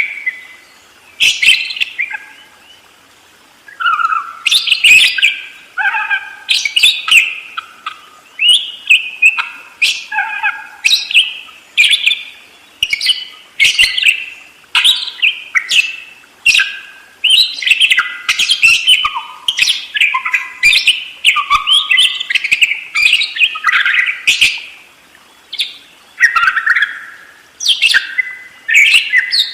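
Budgerigars chattering: a rapid, unbroken run of chirps and warbled squeaky phrases, the continuous 'rolling' chatter of parakeets in good form.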